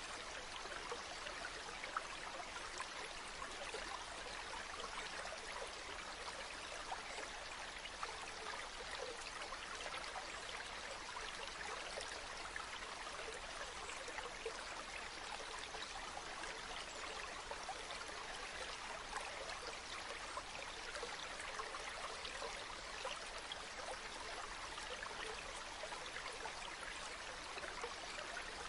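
Running water from a small spring, trickling and splashing steadily with fine droplet ticks.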